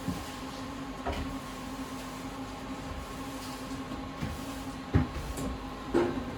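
Steady electrical hum of a standing tram, with a few sharp knocks and bangs about one, five and six seconds in.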